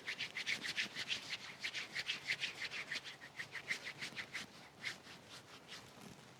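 Rapid back-and-forth rubbing strokes by hand, about six a second, as a part or hands are scrubbed or wiped clean; the strokes weaken after about four seconds and stop shortly before the end.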